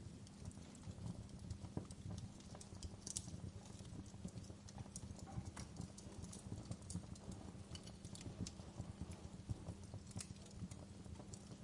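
Campfire wood burning: irregular crackles and pops over a low, steady rumble.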